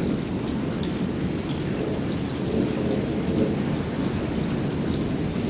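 Continuous low rolling thunder with no gaps or sharp cracks, over a steady patter of rain, from a monsoon thunderstorm with near-constant cloud-to-cloud lightning.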